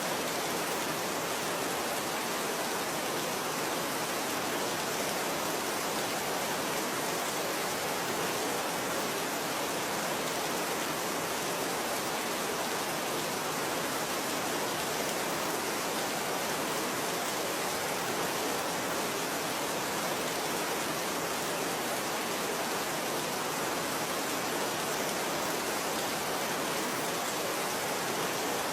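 Steady rain falling: an even, unbroken hiss with no single drops standing out.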